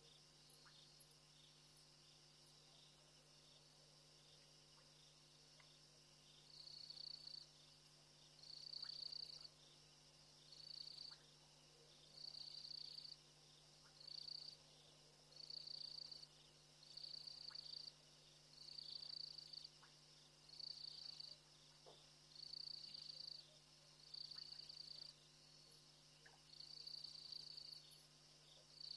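Faint insect calling in repeated high-pitched pulses, about one every second and a half, starting several seconds in, over a steady low electrical hum.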